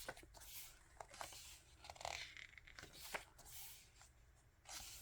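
Faint rustle of photo-book pages being turned by hand: several soft paper swishes, roughly one every second.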